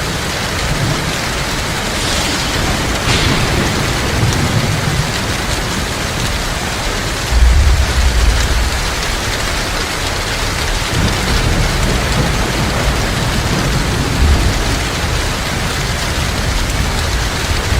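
Heavy rain falling steadily, with low thunder rumbling underneath; the strongest rumble comes about seven and a half seconds in.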